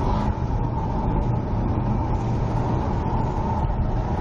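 Car on the move: steady engine and road noise with a low rumble and a steady thin whine over it.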